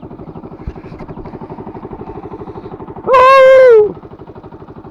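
Motorcycle engine idling with a steady, even pulse. About three seconds in, a single loud held tone sounds for just under a second, dropping in pitch as it cuts off.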